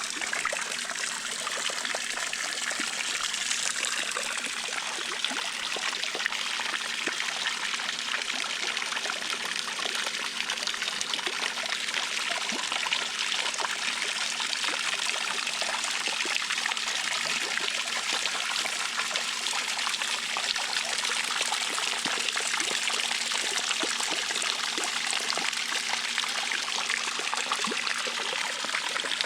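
Intex 28089 pool waterfall cascade running, a steady stream of water splashing and trickling down into the water.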